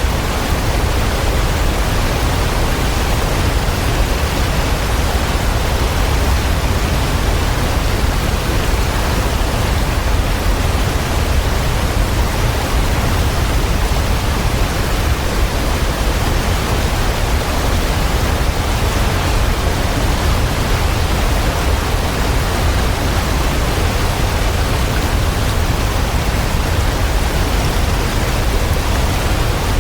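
Waterfall: a steady, unbroken rush of falling water, deep and even, with no change in level.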